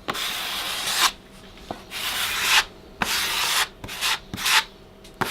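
A drywall knife scraped in repeated strokes across a freshly mudded drywall patch, smoothing the joint compound: about five rasping strokes, the longest at the start and shorter, quicker ones near the end.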